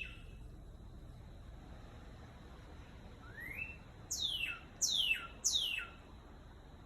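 A songbird singing: a rising whistled note about three seconds in, then three loud, sharply falling whistles in quick succession.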